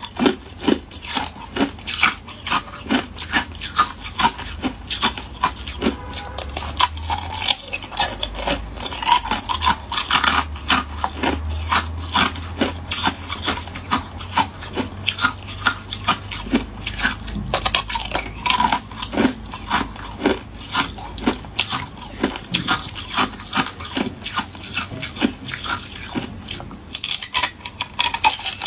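Hard ice cubes being bitten and chewed close to the microphone: a dense, continuous run of sharp crunches and cracks, several a second.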